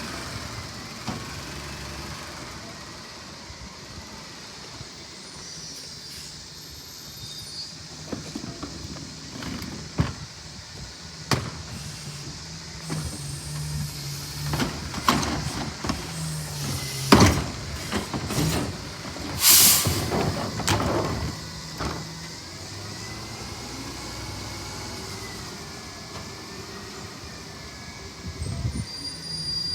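Autocar ACX CNG garbage truck with a McNeilus rear-loader body running, its engine speeding up in steps through the middle. Several sharp knocks and clatter mix with the engine, and a short burst of hissing air comes about two-thirds of the way through.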